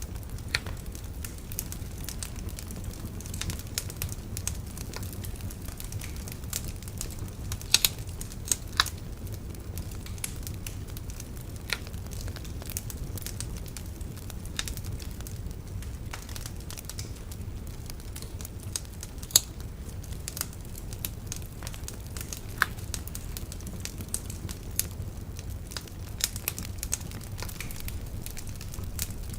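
Wood bonfire burning, crackling with frequent irregular pops and snaps, a few of them sharp and loud, over a steady low rumble.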